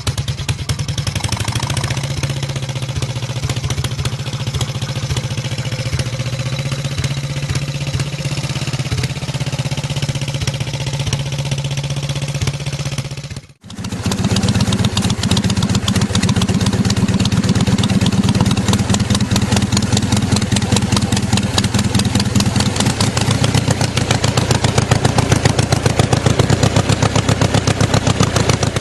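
Harley-Davidson motorcycle engine running steadily with rapid even firing pulses; about halfway through it cuts out for a moment and a different Harley engine takes over, also running steadily. The sound is processed with an 8D panning effect.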